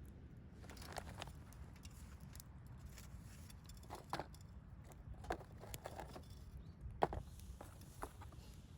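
Wood bonfire crackling faintly, with scattered irregular pops and snaps over a low steady rumble; the sharpest snap comes about seven seconds in.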